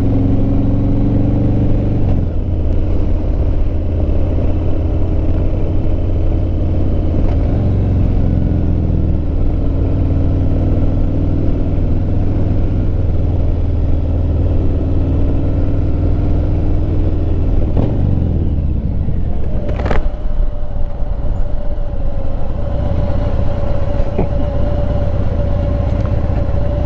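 Motorcycle engine running under way, heard from a helmet-mounted microphone with heavy wind rumble, its note rising and falling with speed. About two-thirds of the way through the engine note drops as the bike slows, and a sharp click follows.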